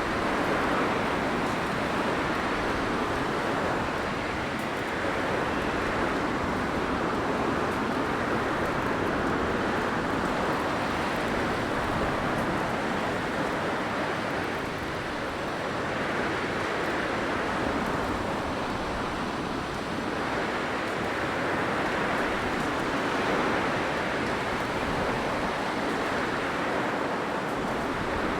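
Blizzard wind: a steady rushing noise that swells and eases every several seconds.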